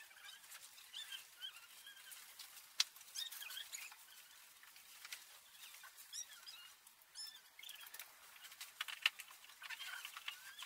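Faint bird chirps and twittering, many short high gliding notes, with a few sharp clicks scattered through it, the loudest about three seconds in and around nine seconds in.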